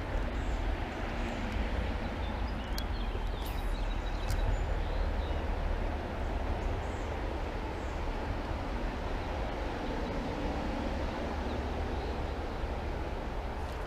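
Steady rush of creek water spilling in from a drain-pipe waterfall, with a low rumble underneath.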